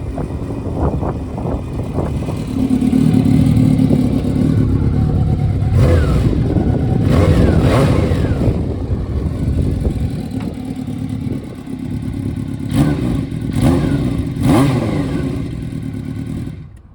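Honda CBX750F's inline-four engine running through a four-into-one collector exhaust while riding, revving up in rising pulls twice, with wind noise. The sound cuts off suddenly near the end.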